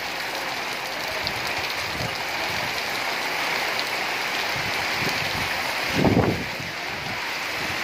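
Heavy rain pouring steadily onto a flat concrete roof and the yards around it. About six seconds in, a gust of storm wind buffets the microphone with a short low rumble.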